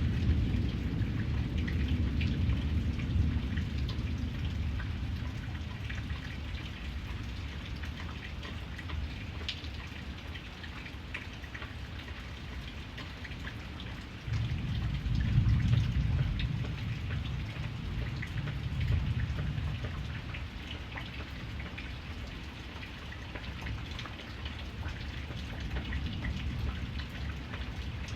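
Steady rain falling, with individual drops hitting a surface. Under it runs a low rumble of thunder that swells suddenly about halfway through and rolls on for several seconds.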